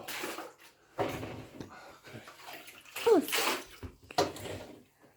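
Dirty water and sludgy rug fibre sloshing and splashing out of a clogged washing machine in several short bursts, as it is worked and scooped out by hand.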